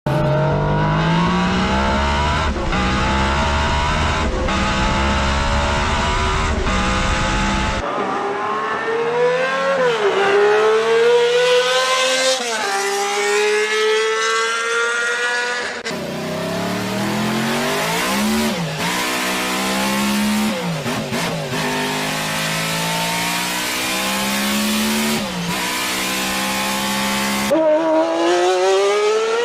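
3.5 cc (.21) nitro RC car engine running: lower and steady for the first eight seconds, then a high-pitched whine that climbs under throttle and drops sharply several times as the throttle is lifted.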